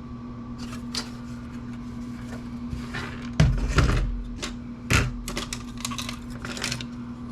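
Computer circuit boards and parts being handled and set down on a workbench: scattered clicks and light knocks, with two heavier thumps a few seconds in, over a steady low hum.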